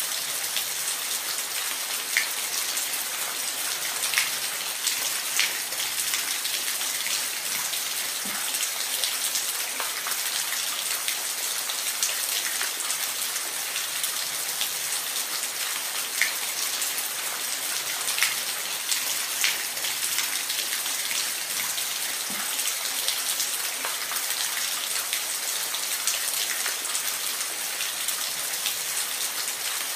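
Waterfall: a steady hiss of falling water, with scattered sharp drips and splashes.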